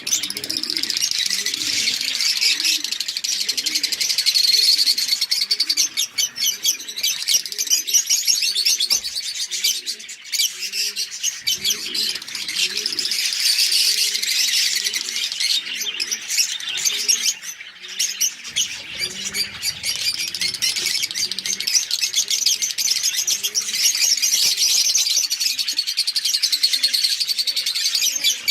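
A flock of Fischer's lovebirds chattering with a dense, continuous stream of high, shrill chirps, with softer, lower repeated calls underneath.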